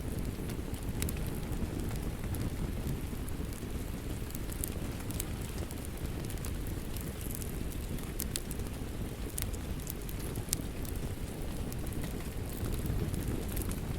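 Steady rain with a fire crackling, scattered sharp pops over a continuous low rumble.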